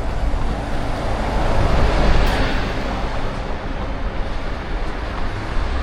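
A vehicle passing close by over steady low rumble, swelling to its loudest about two seconds in and then fading.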